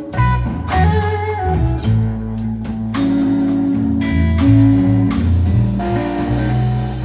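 Blues trio playing live: electric guitar lines over a bass guitar line.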